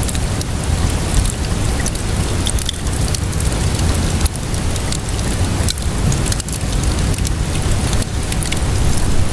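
Fireplace crackling mixed with steady rainfall: a dense rain hiss over a low rumble, with frequent small pops and snaps scattered through it.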